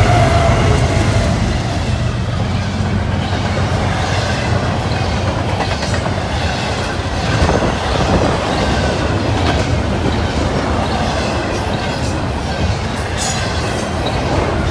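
BNSF double-stack intermodal freight train passing close by. The drone of the trailing diesel locomotive fades over the first second or two, then the container well cars roll past with steady wheel-on-rail noise and scattered clicking from the wheels, a few sharper clicks near the end.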